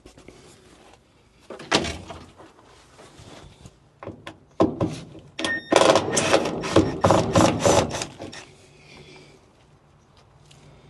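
Hand tools and loose metal car parts clattering as they are handled. There is a single knock about two seconds in, then a few clicks, then several seconds of rattling and clanking in the middle.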